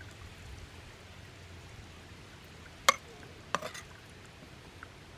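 Two sharp clinks of metal camp cookware less than a second apart, over a faint steady hiss.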